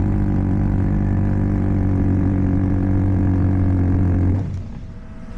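Pneumatic air hammer hammering at a rapid, steady rate on a differential part seized by rust in its splines, stopping abruptly about four and a half seconds in.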